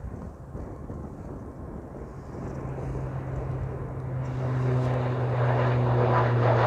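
Airliner engines approaching and growing steadily louder, with a steady low hum that comes in about two and a half seconds in and strengthens toward the end.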